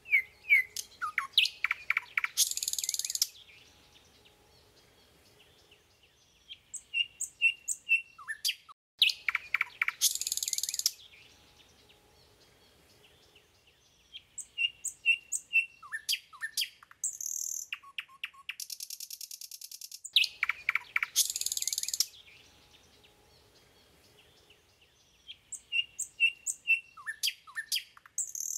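A bird singing a repeated phrase: a quick run of down-sliding whistled notes, then a harsh buzzy note about a second long. Short series of thin high notes fill the gaps, and the phrase comes round about every ten seconds.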